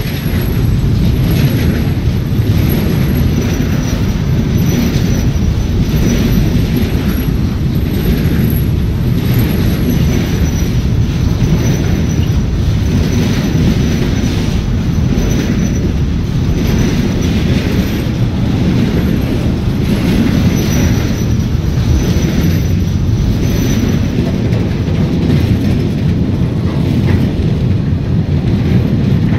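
Container freight wagons rolling past close by: a loud, steady rumble of steel wheels on rail with a regular clatter about once a second as wheelsets pass. A thin high squeal from the wheels comes and goes.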